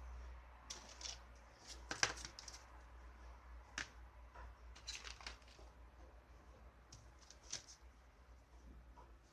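Light scattered clicks and rustles, as of small objects being handled, over a low steady hum.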